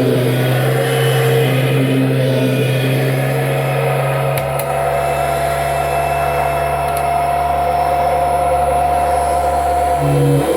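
1998 Kirby Generation 5 upright vacuum running steadily, a motor hum with a few fixed pitches whose low note shifts about four seconds in.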